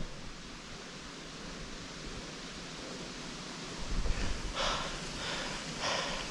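Steady rushing noise of wind and riding on a dirt track, with a low bump about four seconds in. From then on a tired mountain biker is breathing hard, about one and a half breaths a second.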